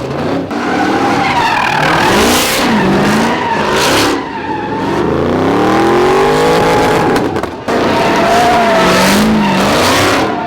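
A car sliding in a drift: its engine revs repeatedly rise and fall while the tyres squeal.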